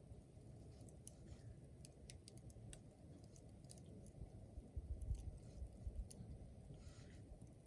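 Wood fire crackling: scattered sharp pops over a steady low rumble, with a brief hiss about seven seconds in.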